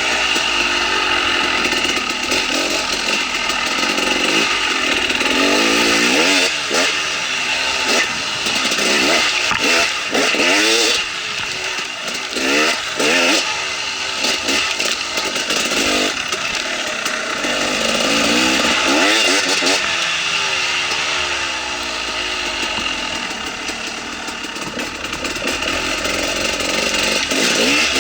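KTM 300 XC-W two-stroke single-cylinder dirt bike engine being ridden, its revs rising and falling again and again as the throttle is worked.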